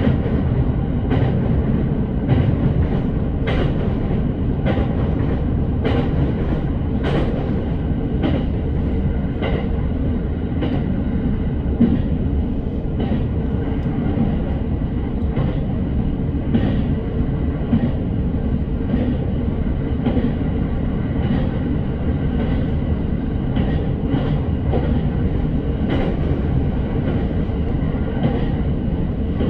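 Commuter electric train running at steady speed, heard from inside the carriage. A continuous low rumble of wheels on track, with a regular clack from the rail joints about every second and a bit.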